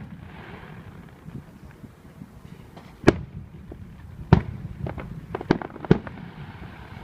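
Aerial fireworks bursting: a sharp bang about three seconds in, another just after four seconds, then a quick run of several bangs near the end.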